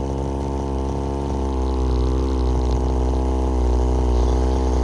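Small two-stroke gas engine of an RC car running steadily at a low, even speed, slowly getting louder.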